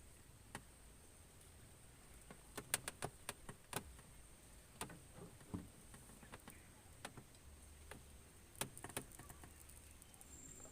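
Scattered faint clicks and taps, a cluster of them about three seconds in and another near nine seconds, over a quiet background with a faint steady high hum.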